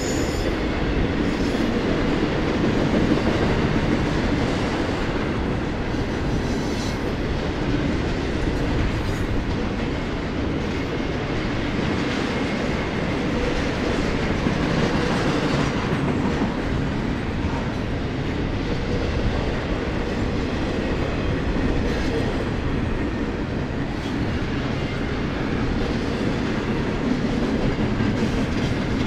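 Double-stack intermodal freight train passing close by: the steady noise of steel wheels rolling on the rails under loaded well cars, with faint scattered clicks from the wheels.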